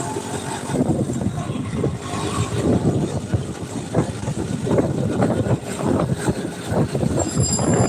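A motor vehicle running, with a steady mix of engine and road noise.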